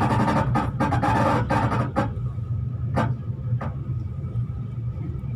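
Inside a V/Line train on the move: a steady low running rumble with sharp clacks of the wheels over rail joints and points, several close together in the first two seconds and a few more spread out after.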